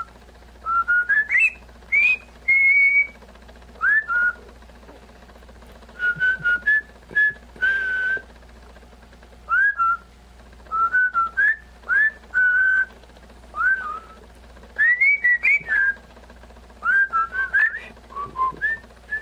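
Pet parrot whistling: clusters of short clear notes, mostly quick upward slides with a few held tones, broken by pauses of a second or two.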